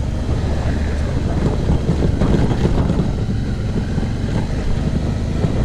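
Suzuki V-Strom motorcycle's engine running steadily while riding a dirt road, with wind buffeting the microphone.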